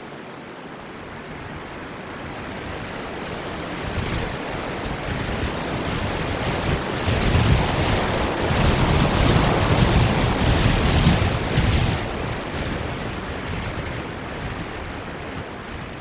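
Strong wind gusting over a nest camera's microphone, a rushing roar that builds, peaks in a series of hard gusts around the middle, then eases off.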